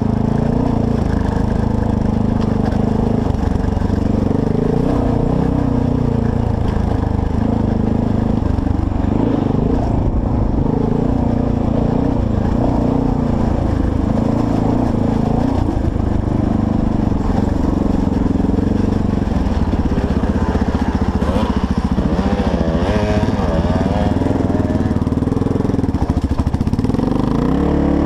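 Honda XR650L dual-sport bike's single-cylinder four-stroke engine running under way, close to the microphone, its pitch rising and falling with the throttle, with a quick run of blips a little past three quarters of the way through.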